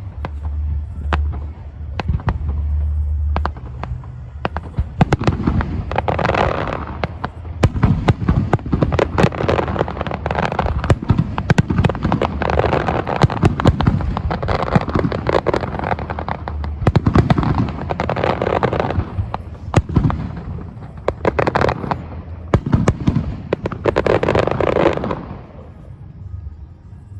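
Fireworks display: a rapid run of bangs with several dense spells of crackling, thinning out near the end.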